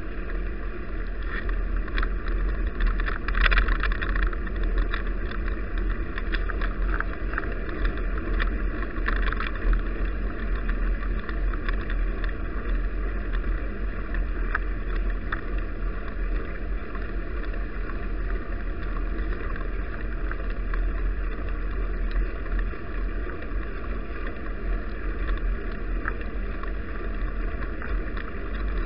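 Wind buffeting an action camera's microphone on a moving bicycle, a steady low rumble with road and tyre noise, and scattered crackles that are thickest about three to four seconds in and again near nine seconds.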